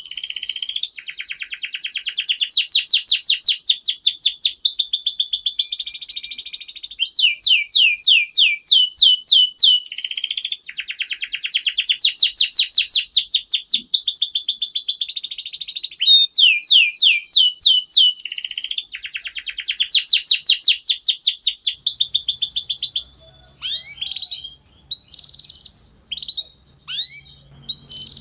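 Domestic canary singing continuously in long, fast rolling trills, phrase after phrase with only brief breaks. About 23 seconds in, the song breaks off into scattered single chirps over a faint low hum.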